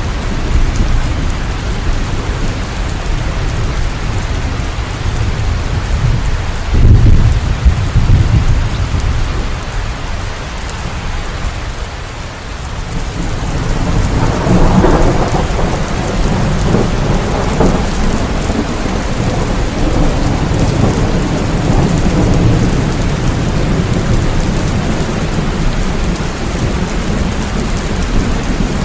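Steady rain falling in a thunderstorm, with thunder rumbling: a short, loud low rumble about seven seconds in, and a longer rolling rumble that builds from about halfway through.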